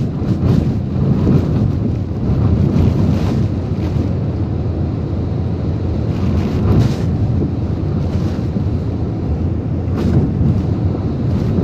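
Typhoon-force wind blowing hard and buffeting the microphone in gusts, with heavy rain; a loud, steady rush of noise that swells and eases.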